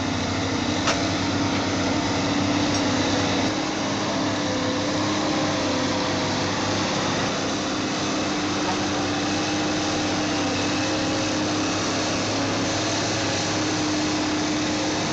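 A heavy vehicle's engine running steadily, with a constant whine over a broad mechanical noise. The low rumble falls away about three and a half seconds in.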